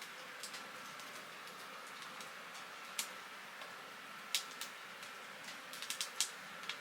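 Firewood burning in a wood stove: a steady soft hiss with sharp, irregular crackles and pops, several bunched together after about four seconds.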